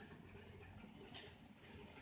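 Near silence: faint background noise with a few soft, indistinct ticks.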